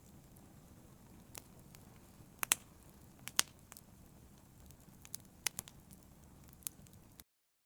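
Fire in a brazier crackling: a low steady rumble with scattered sharp pops at irregular intervals, a few of them louder. The sound cuts off suddenly about seven seconds in.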